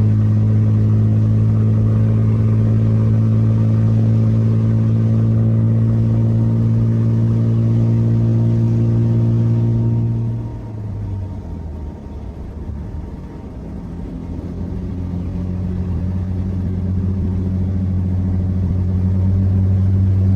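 Vehicle engine running with a steady low drone. About halfway through it drops in pitch and level as it eases off, then slowly builds louder again.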